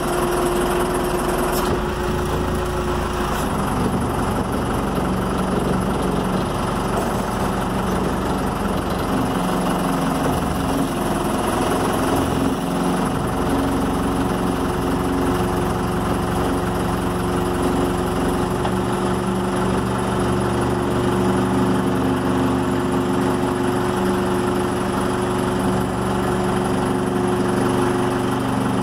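Gradall excavator's engine running steadily under load as it lifts and drags a stuck skid steer out of the mud on chains, its pitch shifting a little partway through.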